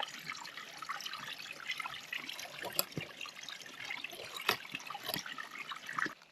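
Bacon sizzling in the heat, a steady crackling hiss with scattered sharp pops.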